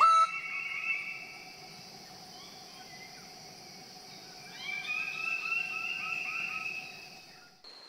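Amazon rainforest ambience: a steady high insect drone with birds calling. A loud call sounds right at the start, and a run of quick, repeated bird notes follows from about four and a half seconds in. The sound cuts off abruptly near the end.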